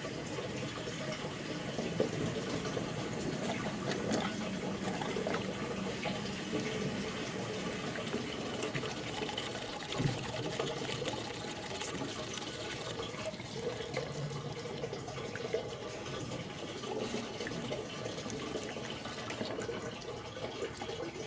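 Diesel exhaust fluid pouring steadily from a jug into a truck's DEF tank.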